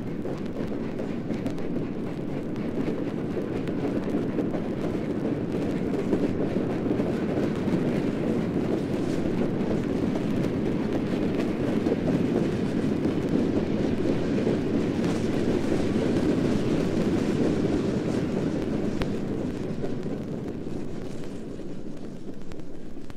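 Steam-era train on the move: a steady rumble of rolling wheels and cars that builds a little, holds, then eases off near the end.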